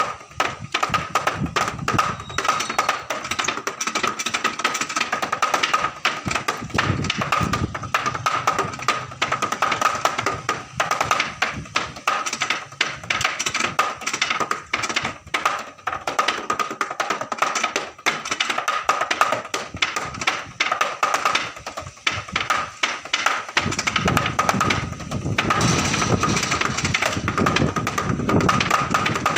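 Drumsticks striking a practice pad in fast, dense strokes. About 24 seconds in, the strokes run together into an unbroken roll.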